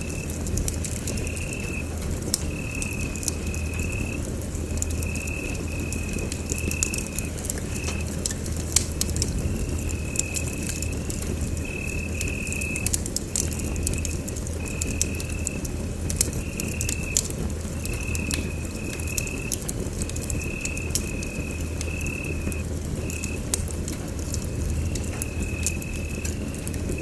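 Wood fire in a fireplace crackling with irregular sharp pops over a steady low rumble, while a cricket chirps in short high-pitched trills about once a second.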